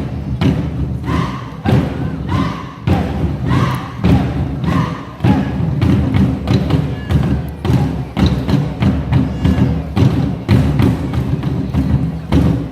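Nanta drum troupe beating Korean buk drums with sticks in a fast, dense rhythm, many strokes a second.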